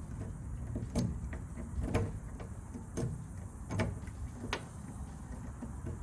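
Five sharp metallic clicks, about one a second, from a key being worked in a 1988 GMC pickup's door lock cylinder that the key will not turn. A low rumble runs underneath.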